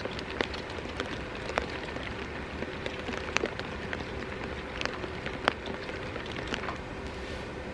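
Steady rain, with a scattering of sharp, irregular pops through it.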